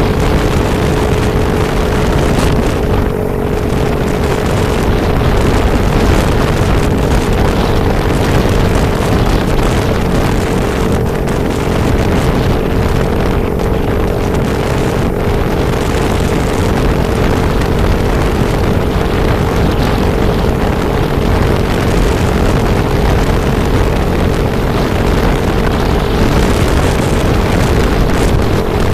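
A vehicle travelling at a steady speed, with wind noise on the microphone over a constant, unchanging engine tone.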